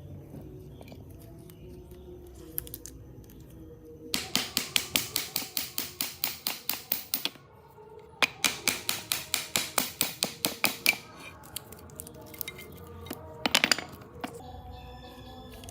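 Two runs of quick, evenly spaced strokes of a hand tool working metal, about five a second, each lasting about three seconds with a short pause between, then a brief cluster of strokes near the end, over low background music.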